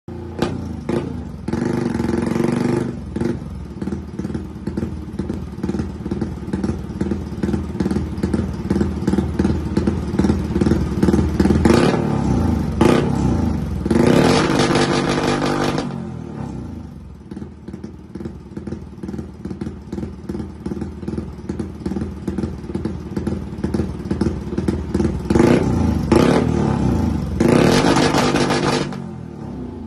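Tuned motorcycle engine built to a 65 mm bore, idling with a lumpy pulsing beat and revved hard in several short bursts, about four of them, each settling back to idle.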